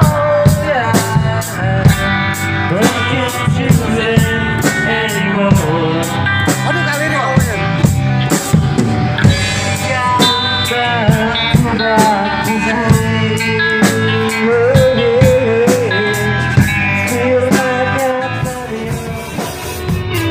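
A band playing a slow blues-rock style song, with guitar and drum kit keeping a steady beat and a wavering melody line over it.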